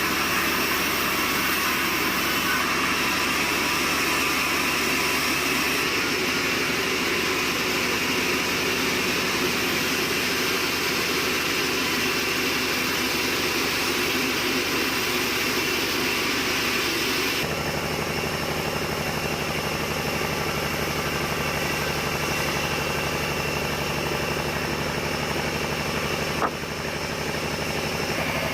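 Sawmill machinery running with a steady drone, its sound changing abruptly twice, with a single sharp click near the end.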